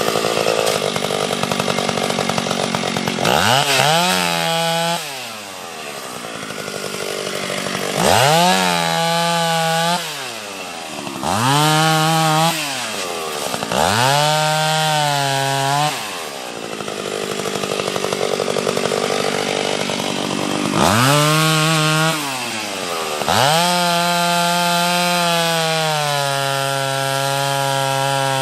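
Two-stroke chainsaw bucking a pine log. The engine revs up sharply about six times, its pitch sagging as the chain cuts into the wood, and it drops back between cuts. Near the end it holds a steady high rev.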